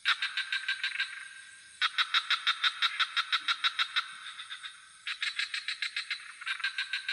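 Frogs calling in rapid pulsed trills, about six pulses a second, in three bouts of one to two seconds each, over a steady high hiss.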